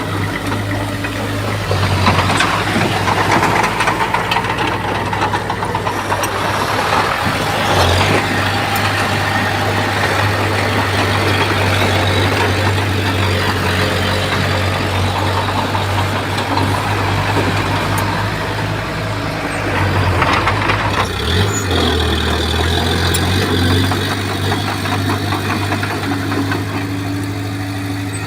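Komatsu bulldozer's diesel engine working steadily under load, its note shifting a few times, with a rough noisy layer from the tracks and the soil and stone being pushed.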